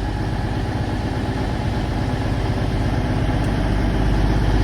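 Class 220 Voyager diesel multiple unit idling, its underfloor diesel engines running with a steady low hum.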